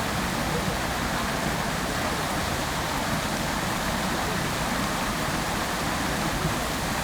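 Fountain water splashing and falling into its basin: a steady, even rush with no breaks.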